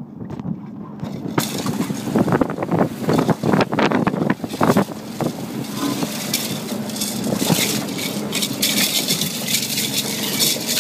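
A boat's engine running steadily under way, with gusts of wind on the microphone and rushing water. The wind and water noise comes in sharply about a second and a half in, buffets irregularly for a few seconds, then settles into a steady rush.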